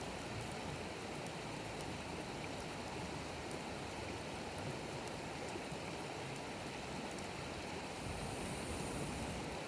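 Wood bonfire burning, with a few faint scattered crackles over a steady rushing background noise that swells slightly near the end.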